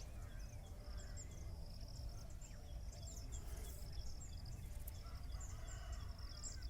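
Faint outdoor ambience: many short, high bird chirps and twitters over a steady low rumble.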